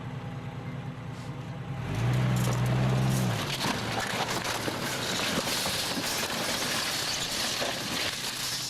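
1987 Jeep Cherokee engine idling, then revving hard for about a second and a half about two seconds in. A loud, rough rushing noise full of crackles follows as the Jeep pulls.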